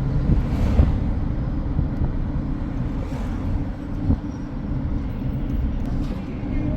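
A steady low rumble with a few faint knocks.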